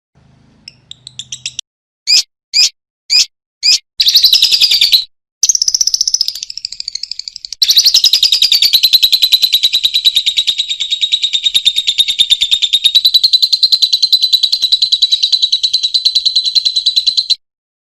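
Lovebird calling: a few short, sharp chirps, then a long, fast chattering trill ('ngekek') held for about ten seconds before it stops suddenly near the end.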